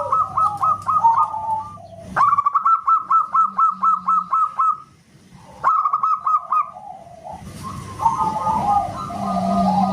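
Zebra dove (perkutut) singing: fast runs of short, clipped coo notes, about eight a second, in bursts that start and stop abruptly, with a lower warbling phrase between runs.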